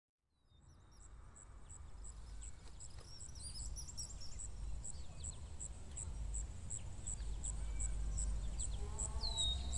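Birdsong: a high chirp repeated regularly about three times a second and scattered short twittering calls, with a falling whistle near the end, over a low wind rumble. It fades in over the first two seconds or so.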